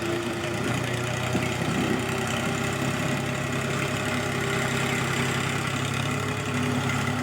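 Tractor engine running steadily with an even, unchanging hum.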